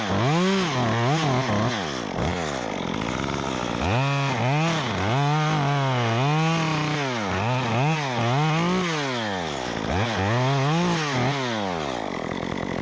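Stihl MS 194T two-stroke top-handle chainsaw with a 1/4-inch ripsaw chain, its engine speed rising and falling over and over, about once or twice a second. Near the end it drops back toward a lower, steadier note.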